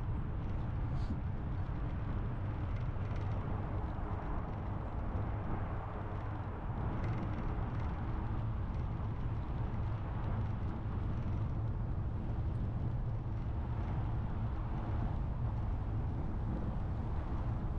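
Steady rumble of wind buffeting the microphone of a camera on a moving bicycle, mixed with tyre and road noise, with a few faint ticks.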